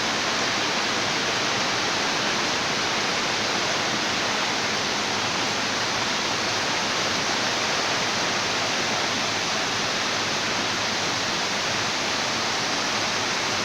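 Steady, unbroken rushing noise of running water, such as a waterfall or fast stream.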